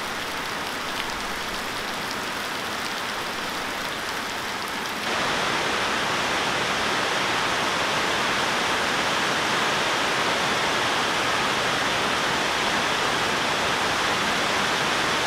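Heavy rain pouring down, splashing into puddles on gravel. About five seconds in it turns louder and denser, a steady hiss.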